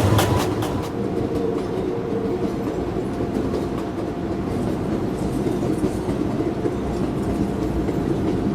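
Subway train running between stations: a quick cluster of wheel clicks over the rails right at the start, then a steady rumble of the car under way.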